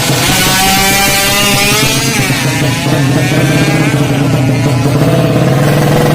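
A Yamaha Jupiter drag bike's single-cylinder four-stroke engine, bored to 200cc, is revved loudly in a sound check. The revs rise, dip and climb again, then settle to a steadier, lower note near the end.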